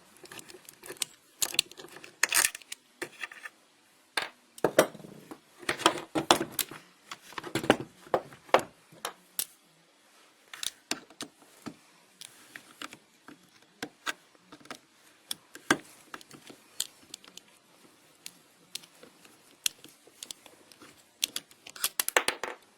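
Irregular small metal clicks and clinks as an Allen wrench works the screws on a WE M14 EBR gas blowback airsoft rifle and the metal parts are handled. The clicks are busier and louder in the first several seconds and thin out later.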